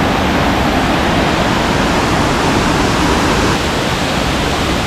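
Loud, steady rushing noise with no distinct events, like falling water.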